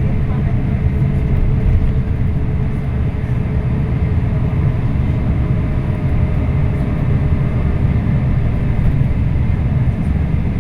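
Scania K340IB coach running steadily under way, a continuous low engine and road rumble with a faint steady whine over it, heard from on board.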